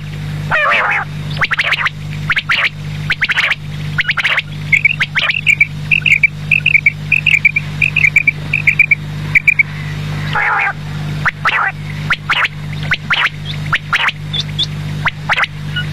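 Quail calling: a series of short, sharp notes, with a quick run of warbling chirps in the middle, over a steady low hum.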